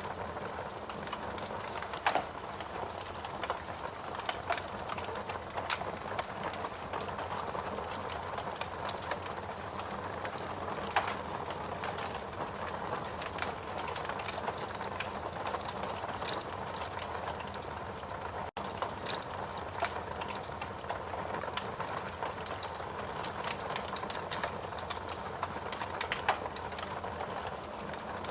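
Log fire burning in a fireplace: a steady hiss with frequent sharp crackles and pops from the burning wood.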